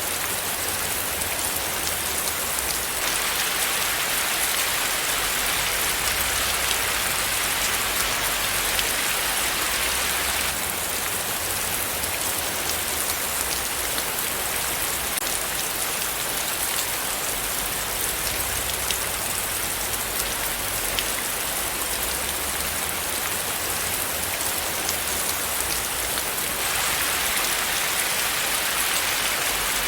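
Steady rain falling on a surface, an even hiss with many small drop patters. It swells a little louder about three seconds in and again near the end, easing back after about ten seconds.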